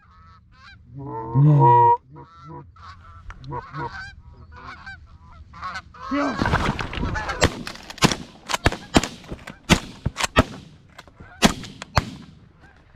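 Goose honking: repeated pitched honks, loudest about a second in, becoming dense and overlapping in the second half. Over that, a rapid run of about ten sharp cracks.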